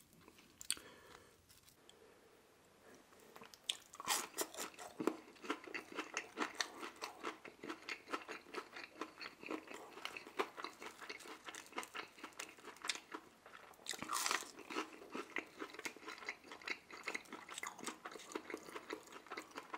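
A person chewing a sauce-dipped Chicken McNugget: quick, crisp crunching that starts about four seconds in after a quiet start, with a louder bite around fourteen seconds.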